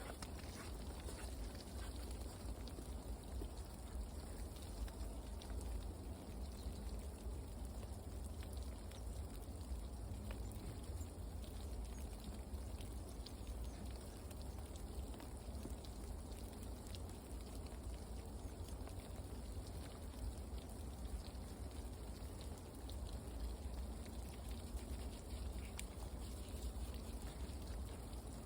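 Faint outdoor ambience: a steady hiss with scattered soft ticks over a low rumble.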